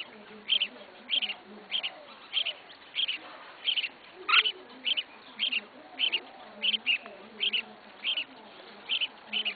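Red-whiskered bulbul calling: short, sharp chirps, some doubled, repeated evenly about every half second or so.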